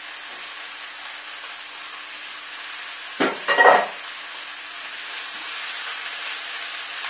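Tofu cubes and vegetables sizzling in a hot wok, a steady frying hiss that grows a little louder as a silicone spatula starts stirring them. A brief loud clatter about three seconds in.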